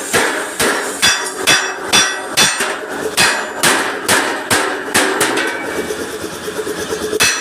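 Hammer striking a steel truck bumper to beat out a dent: a steady run of ringing metal blows about two a second, giving way to lighter, quicker taps near the end.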